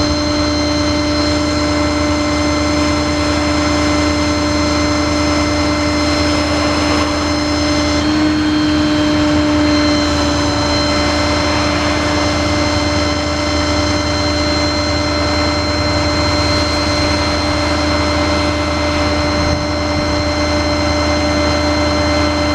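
Ford F550 mechanics truck running with its hydraulic crane system working the winch and crane. It is a steady drone with a constant whine, which shifts slightly about eight seconds in.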